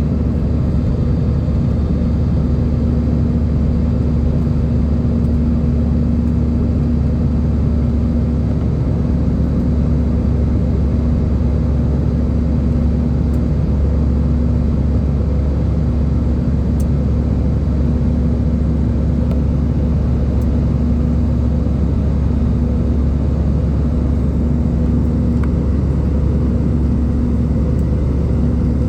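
Airbus A320 airliner heard from inside the passenger cabin: a steady, deep rumble of engines and airflow with a constant low hum running through it.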